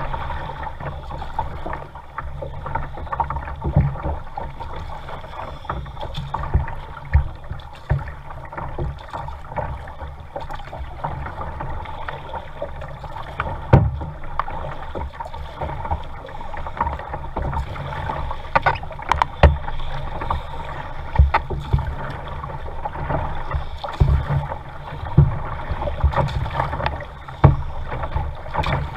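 Kayak being paddled: water sloshing and splashing with irregular knocks and thumps against the boat.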